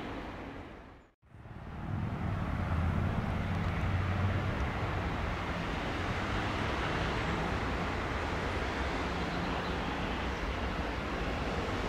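A passenger train hauled by an E.464 electric locomotive approaching along the track: a steady rumble of wheels on rail with a low motor hum. Before it the sound drops out briefly about a second in.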